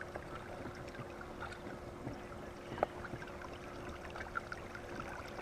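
Creek water trickling and lapping, with scattered small drips and ticks and one sharper click a little past the middle. A faint steady hum runs underneath.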